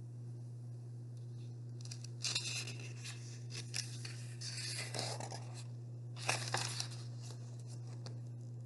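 Paper rustling as the pages of a picture book are handled and turned, in several short bursts starting about two seconds in, over a steady low hum.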